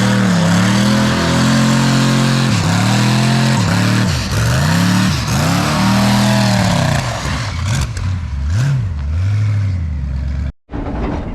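Twin-turbocharged small-block Chevy 350 V8 rat rod engine running hard at high revs, its pitch surging up and down repeatedly. Near the end the revs fall away in a few short stumbling blips, which the owner takes for running out of gas or something breaking.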